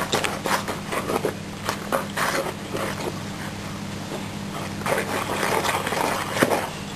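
A spoon stirring cake batter in a mixing bowl: irregular knocks and clicks against the bowl, then a stretch of scraping about five seconds in.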